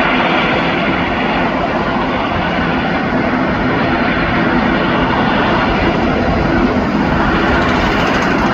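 The twin turboprop engines and propellers of an ATR 72-600 airliner running at high power on departure: a loud, steady drone with a faint hum of steady tones.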